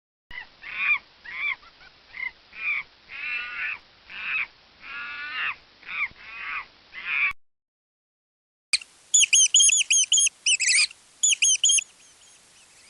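Animal calls: about a dozen short, pitched calls that rise and fall over seven seconds, then after a brief silence a fast run of much higher chirps that trails off.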